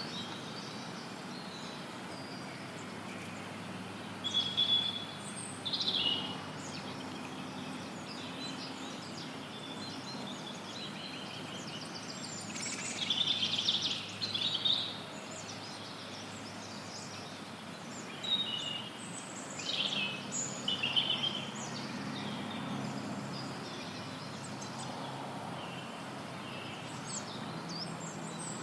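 Forest birds chirping and singing in scattered bouts over a steady white-noise hiss, with the busiest bird activity in the middle of the stretch.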